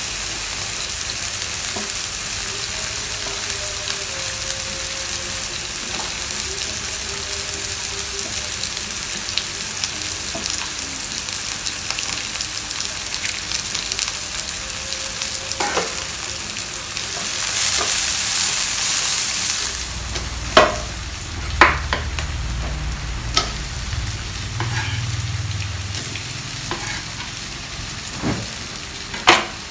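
Eggplant pieces deep-frying in hot oil in a small pot: a steady sizzle that swells louder for a couple of seconds past the halfway mark. In the second half, a few sharp knocks of a utensil against the pan.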